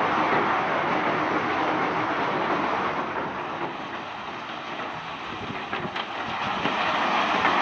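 Cobblestones pouring and rattling off a barge in a continuous rush, easing off about halfway through and building again near the end.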